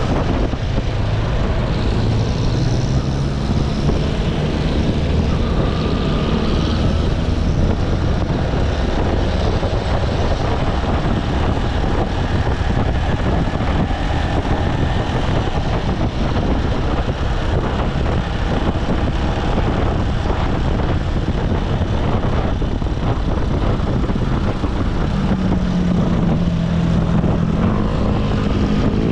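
Motorcycle engine running under way, with heavy wind and road noise on the rider's microphone. The engine pitch rises about a second in and holds a stronger, steady tone near the end.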